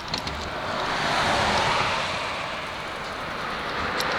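Road traffic passing: the tyre and engine noise of a car swells and fades about a second in, and another approaches near the end.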